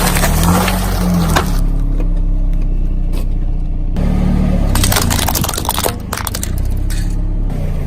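Car engine running low and steady while objects crunch and crack under it: a stretch of crushing noise in the first second and a half, then a second stretch with many sharp cracks from about five to seven and a half seconds in.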